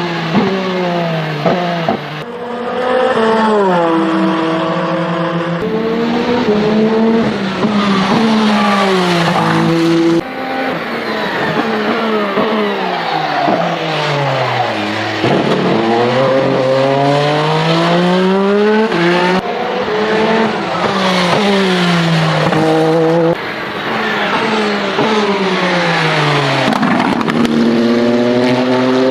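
Peugeot 9X8 EVO hypercar's twin-turbo V6 at speed, its note climbing again and again and dropping away in long falls. The sound changes abruptly several times.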